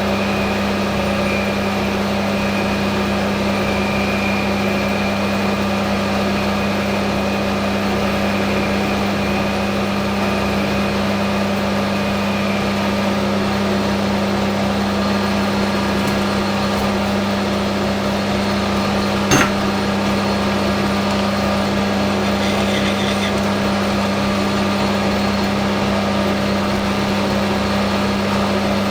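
Metal lathe running steadily with an even motor hum, a faint high tone from the cut in the first half, and a single sharp click about 19 seconds in.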